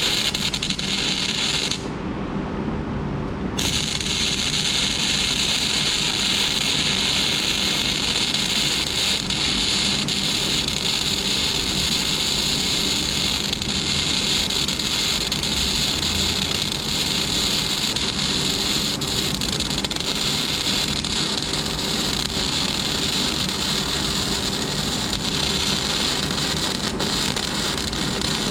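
Flux-cored wire arc welding with a Lincoln Weld-Pak 90i wire-feed welder (no gas): the arc's steady crackling sizzle, which stops briefly about two seconds in and then runs on unbroken.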